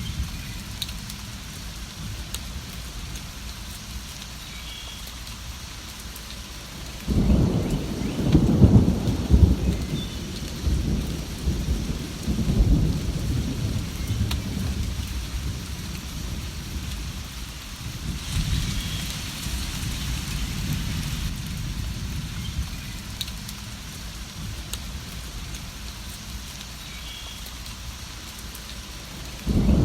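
Steady rain with rolling thunder. A deep rumble of thunder breaks in suddenly about seven seconds in and rolls for several seconds, a weaker rumble follows later, and another starts just at the end.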